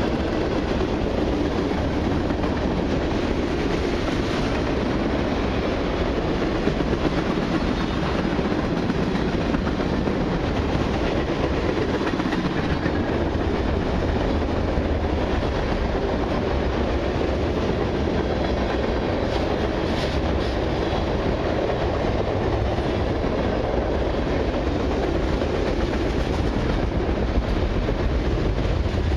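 Freight cars of a long mixed freight train rolling steadily past: a continuous rumble of steel wheels on the rails, with occasional clacks over rail joints.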